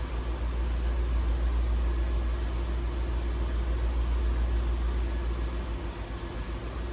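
2002 Lexus LS430's 4.3-litre V8 idling steadily in the first minutes after a cold start, a steady low rumble.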